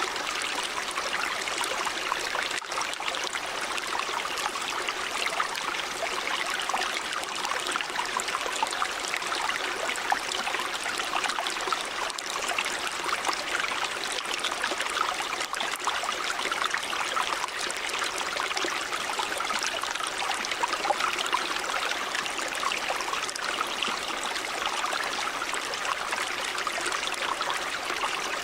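River water running steadily over rocks, a continuous rushing and splashing with fine bubbling detail.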